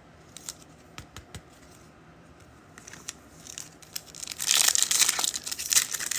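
Wrapper of a football trading card pack being torn open and crinkled. It starts with a few light clicks, then the crinkling builds about three seconds in and is loud from about four seconds on.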